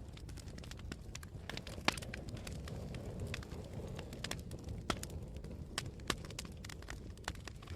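Wood campfire crackling: many irregular sharp pops and snaps over a low, steady rumble of burning, swelling a little midway.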